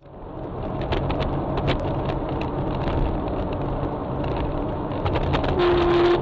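Car interior road noise and engine rumble picked up by a dashcam, with scattered sharp clicks and a short steady beep-like tone near the end.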